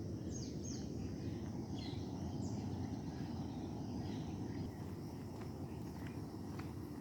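Small birds chirping, a few short high downward-sweeping calls in the first half, over a steady low outdoor rumble. A few faint short ticks follow near the end.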